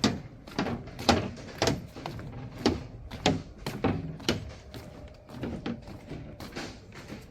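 An irregular series of sharp knocks and thumps, about one or two a second, over a faint steady hum.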